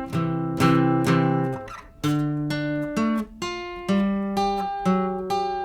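Acoustic guitar played solo, strummed chords and then plucked notes that each ring and fade, with a short pause about two seconds in.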